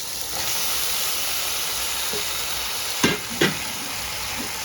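Tomato and herb seasoning sizzling steadily in hot oil in a pot, with two sharp knocks of a utensil against the pot about three seconds in.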